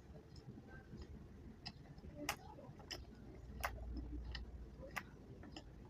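Close-miked chewing of chewy chocolate candy: sharp, wet mouth clicks and smacks come irregularly, roughly one every half second to a second.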